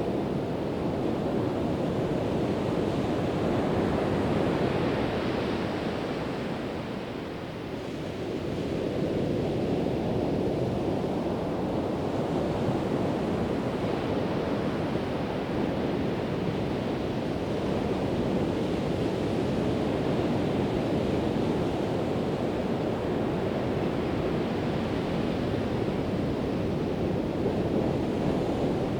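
Ocean surf breaking and washing on a beach, a continuous rushing that swells and eases, with a brief lull a few seconds in.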